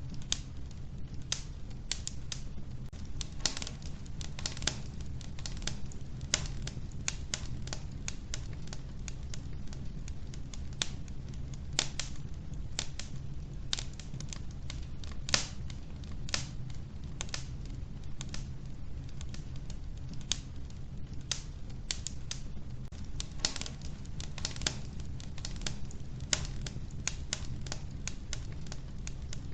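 Wood fire burning in a wood-burning stove: logs crackling and popping at irregular intervals, several snaps a second with a few louder pops, over a steady low rumble of the flames.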